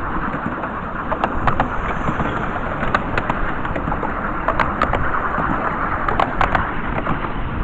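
Miniature railway train running along the track: a steady rumble and rattle of the wheels and carriages, with scattered sharp clicks.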